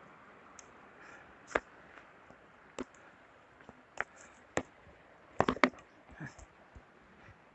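A string of sharp clicks and knocks at uneven intervals, hard objects knocking together, with the loudest two close together a little past the middle, over a faint steady hiss.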